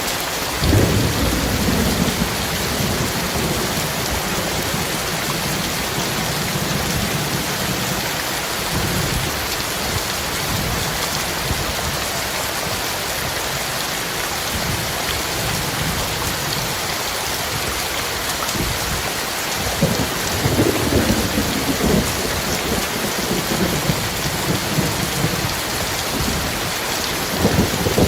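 Heavy rain falling steadily, with thunder rumbling low: a long roll starts about a second in, another around twenty seconds in, and a third near the end.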